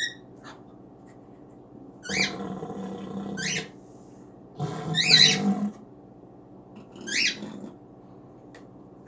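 A cockatiel giving short rising chirps in four bursts, with scuffling noise against a big cardboard tube. The loudest burst comes about halfway through.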